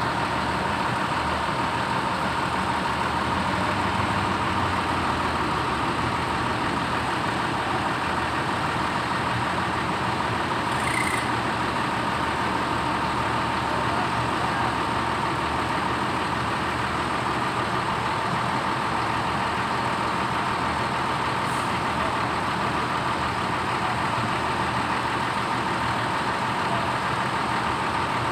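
Hino AK8 bus diesel engine idling steadily, an even, unchanging run with a steady hum.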